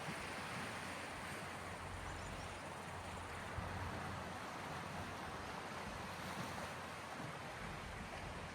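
Sea waves washing steadily on the shore, an even rushing noise with a low rumble underneath.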